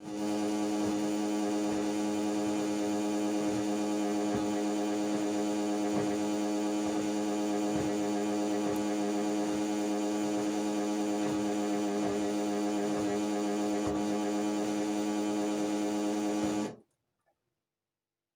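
LG washing machine making a foreign noise from underneath: a loud, steady hum with a faint tick about once a second. The owner does not know its cause. The sound cuts off suddenly near the end.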